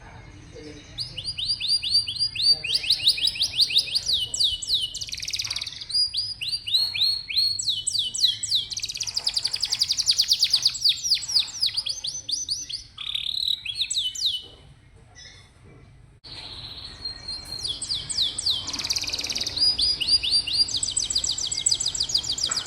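Domestic canary singing a long, rolling song of rapid repeated notes and trills. The song breaks off for a couple of seconds about two-thirds of the way through, then starts again.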